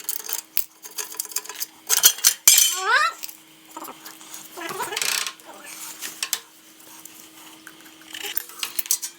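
Hand tools working on a small engine: irregular metal clinks and clicks of wrench, socket and bolts. A short rising squeal comes about two and a half seconds in, under a faint steady hum.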